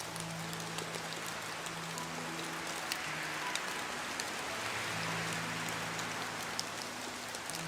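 Steady rain, an even dense hiss with scattered drop ticks, as in a rain-sounds recording for sleep.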